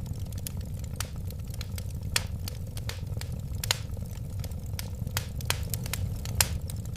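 Wood fire crackling in a fireplace: a steady low rumble of burning with frequent sharp, irregular pops and snaps, a few louder ones scattered through.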